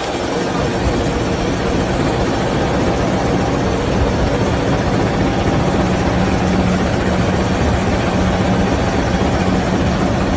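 Argo Semeru diesel-hauled passenger train running past at close range: a steady, loud rumble with a low engine hum in it.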